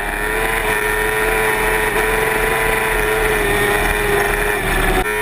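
Motorcycle engine held at high, steady revs at speed, one constant high engine note that breaks off suddenly about five seconds in.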